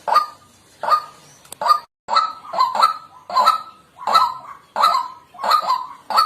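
White-breasted waterhen calling: a harsh, nasal 'kwak' note repeated over and over, about two calls a second.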